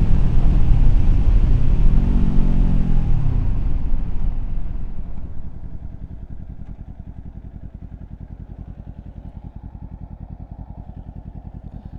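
Kawasaki Z400's parallel-twin engine with wind noise as the motorcycle slows, a brief rise and fall in engine pitch about two seconds in. From about five seconds on it settles into a steady idle with the wind gone: the bike stopped at a red light.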